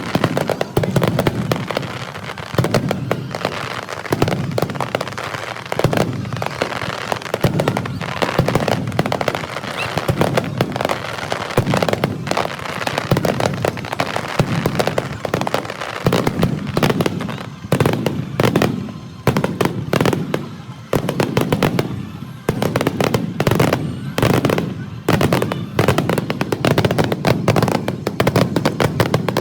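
Fireworks display going off in a dense barrage: rapid bangs and crackles, many a second, with a few brief lulls in the second half.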